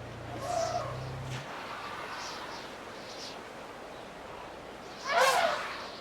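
Wild birds calling in the bush, with a vehicle's engine idling low that cuts off about a second and a half in. Near the end comes one loud, harsh call lasting about half a second.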